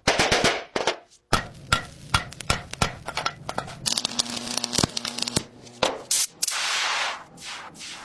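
Hand work on a model car: a rapid, uneven series of sharp clicks and knocks of small hard parts and tools, with stretches of steady rough noise about halfway through and again near the end.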